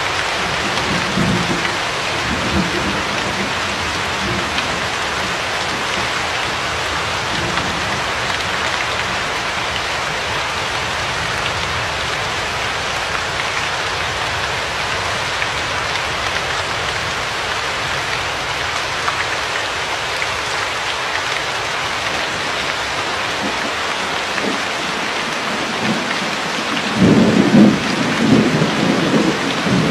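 Steady heavy rainfall, an even hiss. Faint low thunder rumbles in the first few seconds, and a louder roll of thunder near the end.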